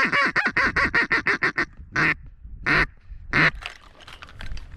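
Duck quacking: a fast run of about a dozen quacks, then three single, spaced quacks.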